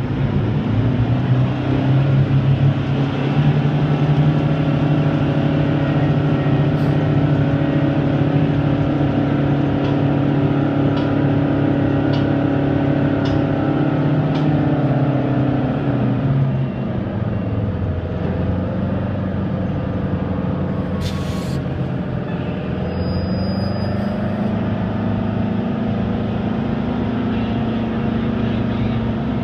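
The Detroit Diesel engine of an American Hoist & Derrick 9530 crane runs at high revs, working. About halfway through it drops to a lower speed and keeps running.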